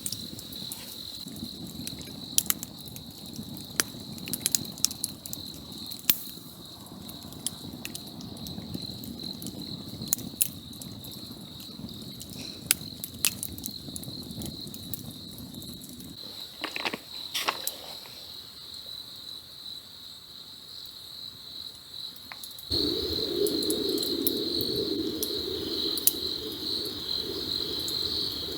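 A steady, high-pitched chorus of chirping insects over a campfire crackling with scattered sharp pops. About two-thirds through, the sound jumps louder and the insect chorus fills out.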